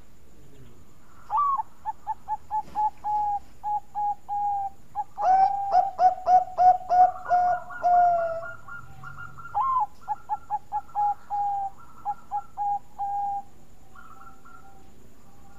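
Zebra dove (perkutut, Bangkok type) singing its cooing song: two long runs of rapid, evenly spaced short coos, each opening on a higher note. The first run grows louder and fuller in its second half. Faint further coos come near the end.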